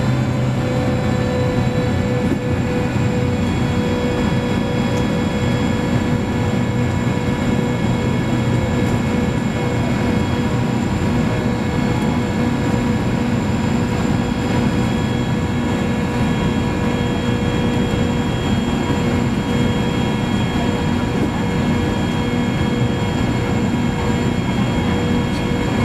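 Boeing 929 jetfoil's gas turbines and waterjet propulsion running steadily, heard from inside the passenger cabin: a constant roar with a steady high whine on top. This is late in the run from engine start to flying on its foils, so the craft is most likely foilborne at cruising speed.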